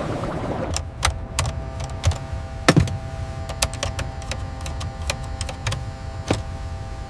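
A rushing noise that stops under a second in, then sharp mechanical clicks and knocks at irregular intervals over a steady hum, the loudest knock about three seconds in.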